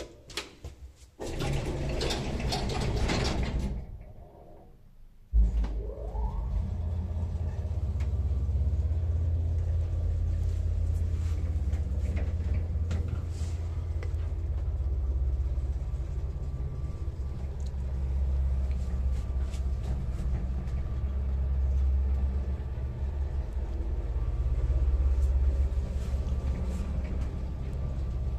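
Elevator doors sliding shut, then a short pause. About five seconds in, the elevator's AS2-72 motor starts with a jolt and a brief rising whine, then runs with a steady low hum as the car travels.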